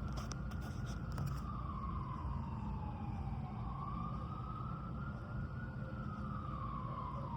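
Emergency vehicle siren in a slow wail, rising and falling about twice over a steady low rumble. A few clicks sound near the start.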